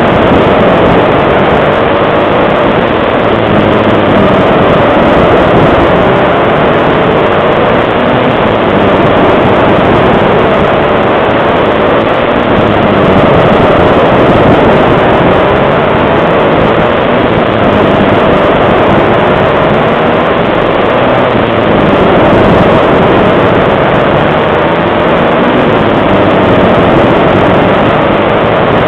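Small pit bike engines racing, their revs rising and falling over and over. Loud and steady on an action camera's microphone.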